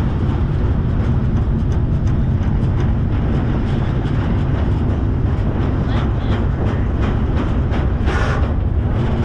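Steady low rumble of a moving freight train heard from aboard, with faint wheel clicks over the rails and a brief louder hiss about eight seconds in.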